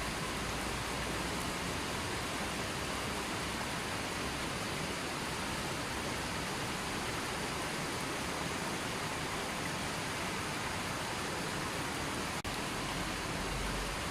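River water flowing steadily, a constant even rush, with a momentary dip in level about twelve seconds in.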